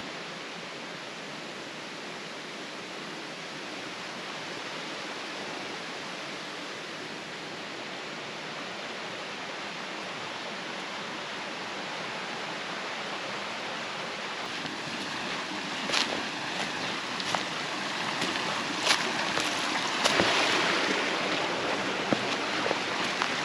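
Valley stream rushing steadily. In the second half, several sharp clicks and knocks sound over the water.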